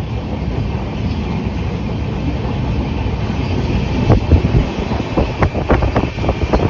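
Passenger train running, a steady low rumble with wind buffeting the microphone. From about four seconds in, a quick, irregular run of knocks comes from the wheels clattering over rail joints.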